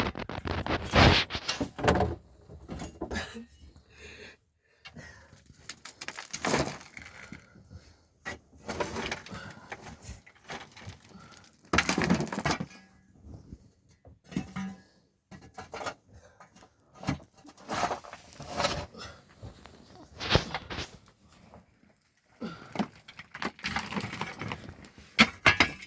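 Stones being handled and set in place for a stone fireplace: irregular knocks, clatter and scraping, with short pauses between them.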